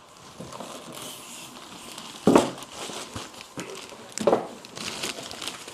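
Foam and plastic packaging rustling and crinkling as a DJ mixer is unpacked from its box, with two sharper knocks about two and four seconds in.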